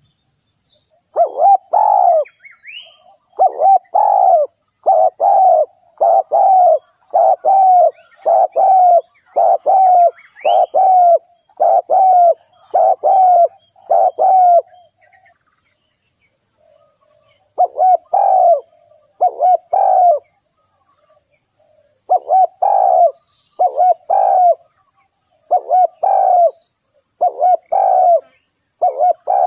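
Spotted dove cooing over and over, the call of a decoy dove used to lure wild spotted doves. A long run of coos stops about fifteen seconds in, pauses for about three seconds, then starts again.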